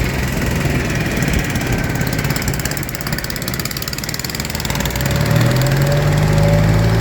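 Small boat's engine running steadily, with its note growing louder and steadier about five seconds in.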